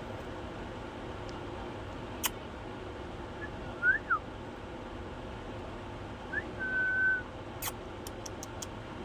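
Pet parrot whistling: two quick short whistles, one rising and one falling, about four seconds in, then a short rising whistle and a held flat whistle lasting under a second past the middle. A few sharp clicks sound between them.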